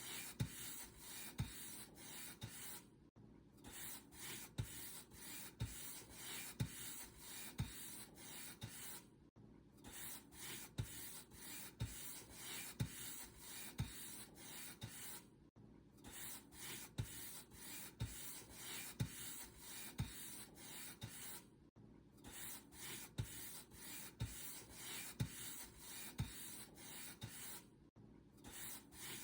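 Paint brush bristles stroking back and forth over a surface: a faint, steady run of swishing strokes with soft low taps, broken by a short pause about every six seconds.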